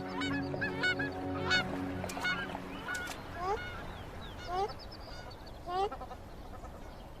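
Short honking animal calls repeated about once a second, each rising in pitch. Under the first few calls a sustained music chord holds, then stops about three seconds in.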